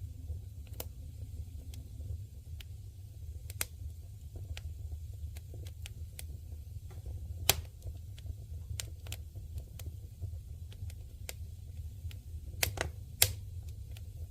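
Wood campfire crackling: irregular sharp pops and snaps, the loudest about seven and a half seconds in and a pair near the end, over a low steady rumble.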